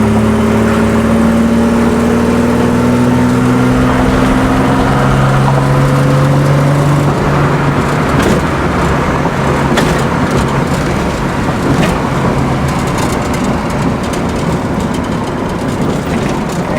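Car engine pulling under acceleration, its pitch rising slowly and steadily for about the first seven seconds. After that it gives way to a steadier, rushing noise.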